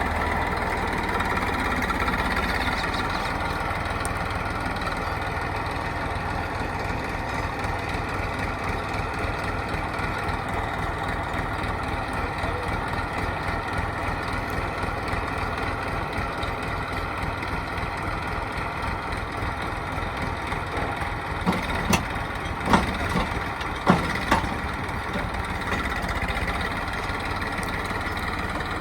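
Heavy diesel engine of a working machine running steadily, with several sharp knocks in quick succession about three-quarters of the way through.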